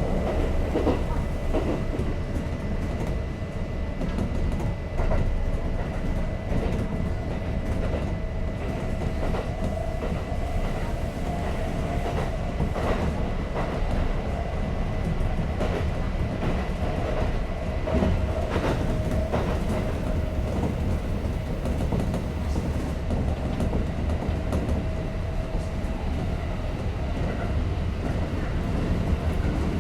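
Kintetsu 5800 series electric train running between stations, heard from inside the car: a steady rumble of wheels on rail with a running hum and scattered clicks as the wheels pass over rail joints.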